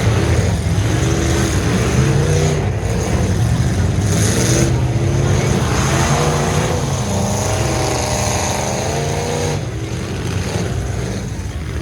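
Several full-size trucks' engines running and revving in a demolition derby.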